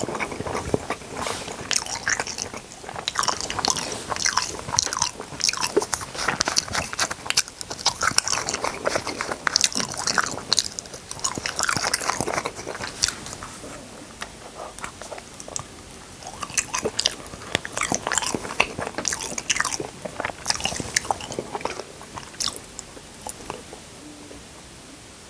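Close-miked eating: a person biting and chewing food with many short, sharp mouth clicks, busiest in the first half and thinning out over the last ten seconds.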